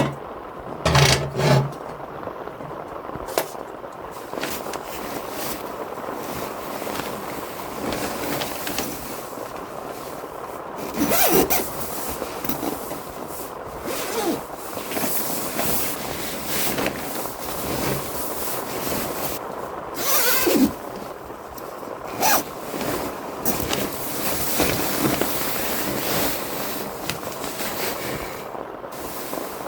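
Steady heavy rain on a tent or tarp, with intermittent scrapes, knocks and rustles of gear being handled close by.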